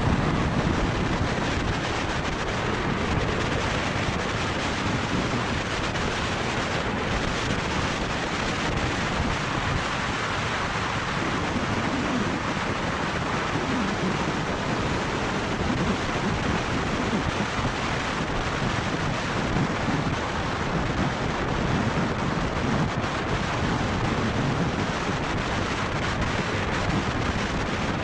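Steady wind rushing over the microphone of a moving motorcycle, a loud even roar with gusty swells in the low end.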